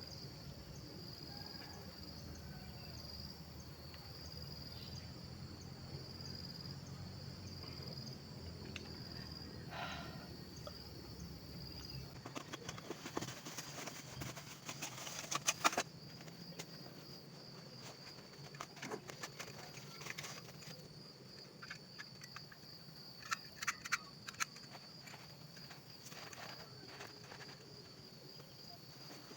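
Insects calling in a steady high trill, with scattered clicks and knocks from gear being handled, a cluster of them about halfway through.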